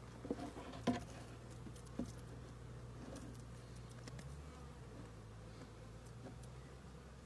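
Asian hornets buzzing faintly around their primary nest, with a few soft ticks in the first two seconds, the loudest about a second in.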